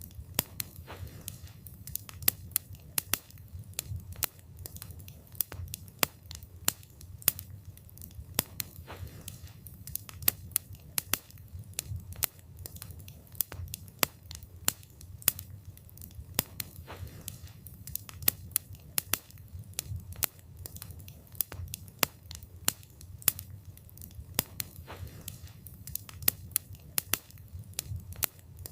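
Wood fire burning with frequent sharp, irregular crackles and pops of the burning wood over a low rumble of the flames.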